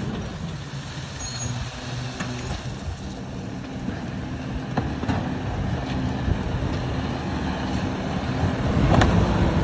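Garbage truck engine running steadily, with a couple of light clicks.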